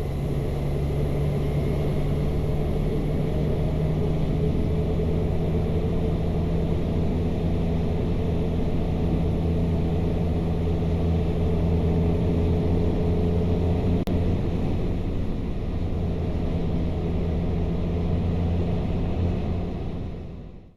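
Motorcycle engine running at a steady cruise, holding one pitch; the sound fades out near the end.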